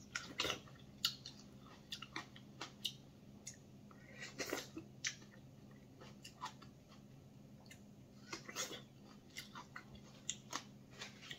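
A person chewing fresh plums up close, with faint, scattered wet mouth clicks and smacks.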